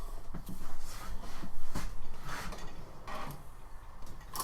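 Tools and metal parts being handled on a workbench: scattered knocks, clinks and rustling.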